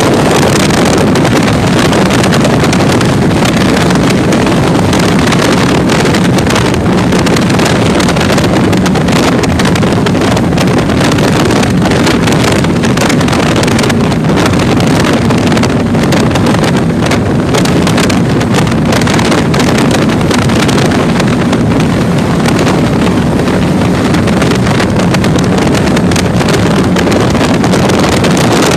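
A 30-foot catamaran powerboat running at speed through rough water, its engines a steady drone under heavy wind buffeting on the microphone and the rush of water.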